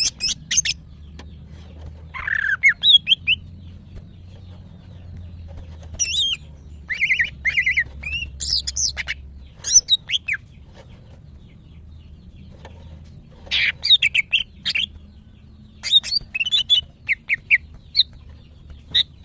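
Female green leafbird (cucak ijo) in breeding condition giving clusters of sharp, quickly repeated chattering calls with gaps of a few seconds between them: the female's call for a male, used to set other cucak ijo singing. A faint steady low hum runs underneath.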